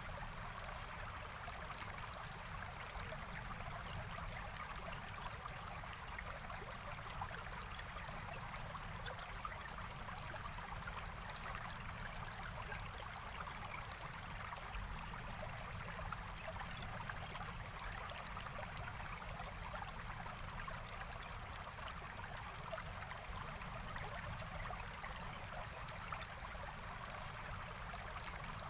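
Forest stream flowing steadily over stones, a continuous even rush of water with faint scattered ticks.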